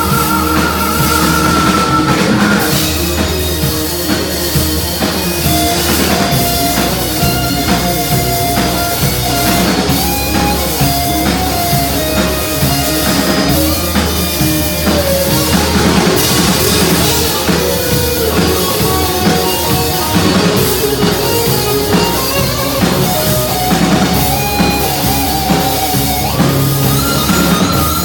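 Heavy metal band playing live: an instrumental passage with a pounding drum kit, bass and distorted rhythm guitar, and a lead guitar holding long melodic notes over it, with no vocals.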